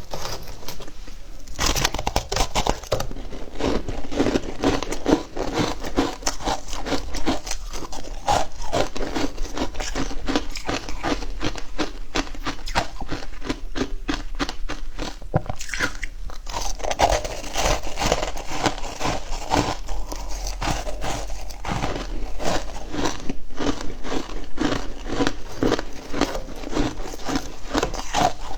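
Frozen matcha ice being bitten and chewed: a dense run of rapid, crisp crunches.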